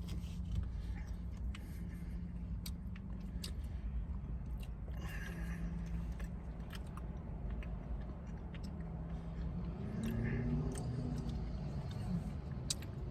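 Chewing a bite of a coconut-flavored Snickers bar, with small wet mouth clicks over a steady low hum.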